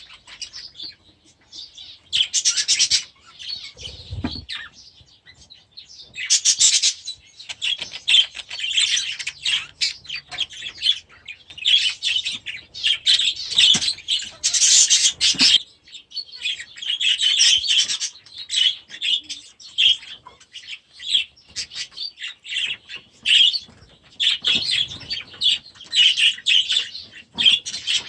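A flock of young budgerigars chattering and chirping continuously, with several louder bursts of calling and wing flapping.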